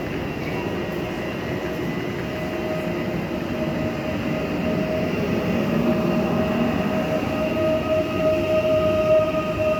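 PKP Intercity ED161 Dart electric multiple unit running at the station: a steady rumble with a high steady whine that grows louder over the second half.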